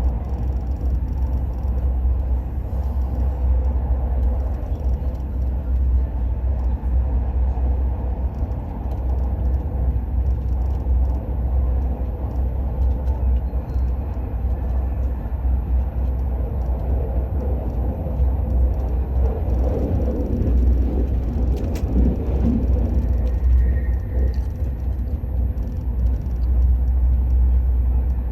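Steady low rumble of the Al Boraq high-speed train running at speed, heard from inside the passenger cabin.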